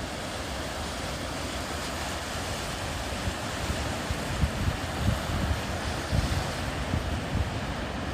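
Sea waves washing onto a sandy beach in a steady rush, with wind gusting against the microphone in low buffets from about three seconds in.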